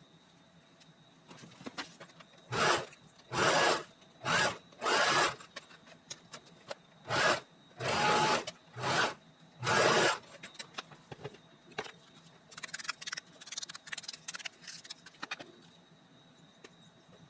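About seven short rasping strokes, each under a second, come in an uneven rhythm about a second apart, like something being scraped or rubbed by hand. Lighter scattered rustling and clicks follow.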